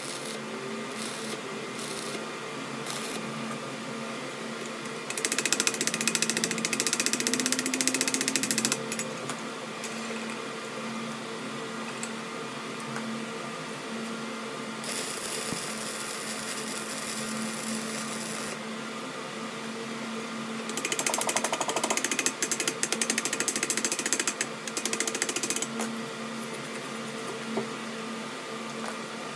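A metalworking machine running steadily with a constant hum. Three times it is joined by a few seconds of harsher, high-pitched noise of metal being cut or ground.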